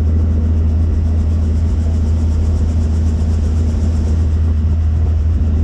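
Helicopter engine and rotors running with a loud, steady low drone.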